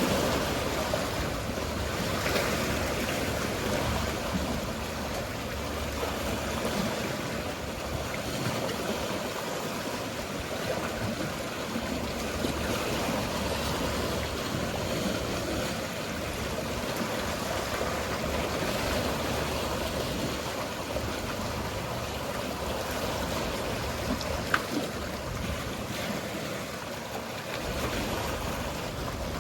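Sea water washing and lapping in a steady rush, with a low rumble that comes and goes underneath and a single sharp tick near the end.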